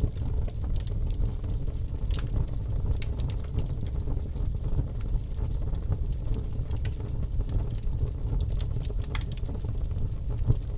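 Wood fire crackling in a fireplace, with scattered sharp pops and snaps, over a steady low rumble of snowstorm wind.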